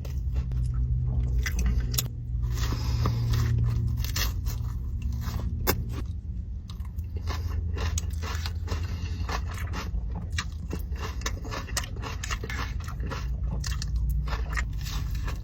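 A person chewing and crunching crispy food close to the microphone, with many irregular crackling bites, over a low steady hum.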